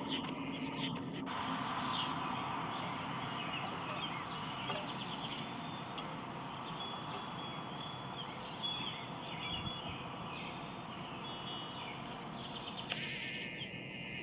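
Small birds chirping and singing, with many short high notes and trills scattered throughout, over a steady outdoor background noise.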